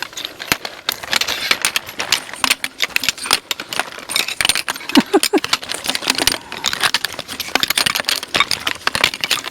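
Folding camping chair frames being collapsed in a hurry: a rapid, continuous run of clicks and rattles as the jointed struts are snapped shut.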